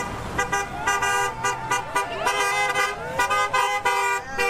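Car horns honking repeatedly in a series of short and longer blasts, several horn tones sounding together, with voices shouting faintly between them.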